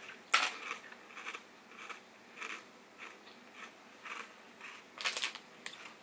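Close-up crunching of frozen sugar-free popsicle ice being chewed: one sharp crunch shortly after the start, then a crunch about every half second. A louder crackle near the end as the plastic popsicle wrapper is handled.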